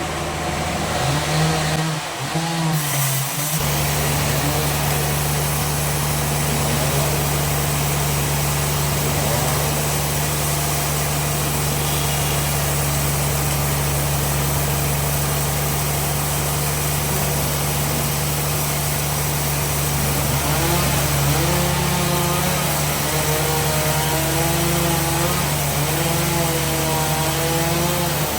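Sawmill bandsaw running steadily with a low machine hum and the noise of the blade. A wavering whine comes in over the last several seconds.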